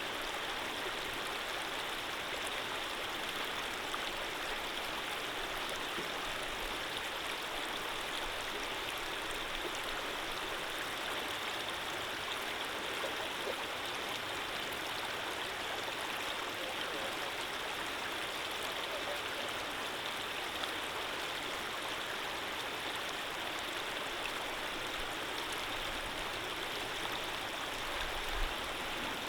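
Gentle stream of running water flowing in a steady, even rush with no breaks. There is a brief low bump near the end.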